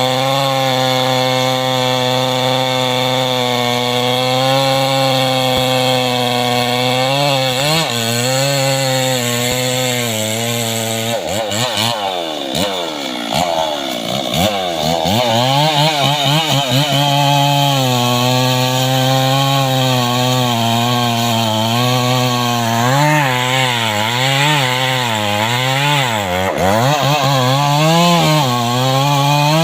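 Two-stroke chainsaw cutting into mahogany at high revs. Its note wavers as the bar loads and unloads in the wood, and about halfway through it drops sharply in pitch, bogging under load, before climbing back up.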